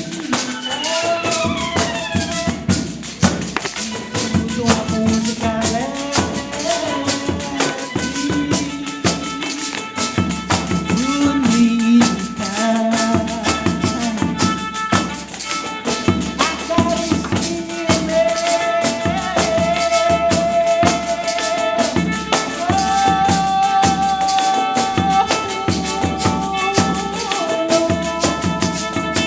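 Live Brazilian percussion music: an ensemble of pandeiros, frame drums with jingles, playing a fast, busy rhythm, with a held melody line over it.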